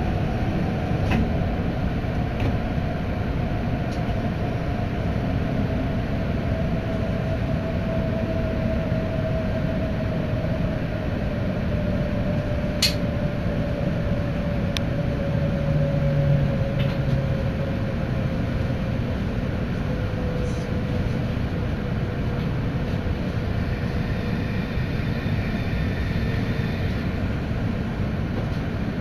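Hokkaido Shinkansen train heard from inside the carriage as it slows into the station: a steady rumble under a whine that falls slowly in pitch, with a sharp click about halfway through.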